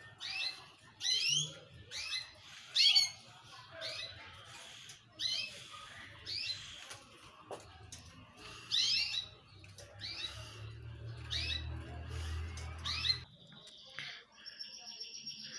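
A caged bird chirping over and over, short sharp calls about once a second, ending with a few steady whistled notes.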